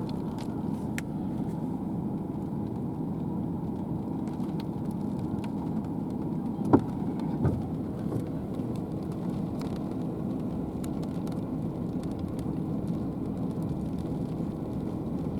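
Steady low rumble inside a car, its engine idling while stopped. There is a sharp click about seven seconds in.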